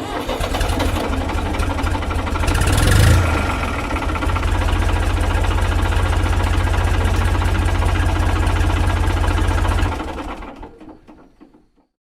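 Steady, rapidly pulsing engine-like running sound of a DIY mini tractor, swelling louder about three seconds in, then fading out near the end.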